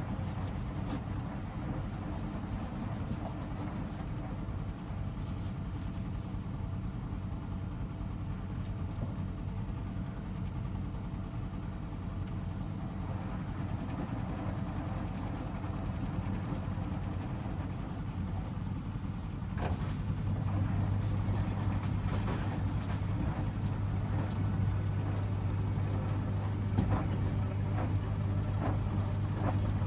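Hoover DXOA610AHFN-80 front-loading washing machine running mid-cycle with a steady low hum. About 20 seconds in it gets louder as a stronger low hum starts and holds.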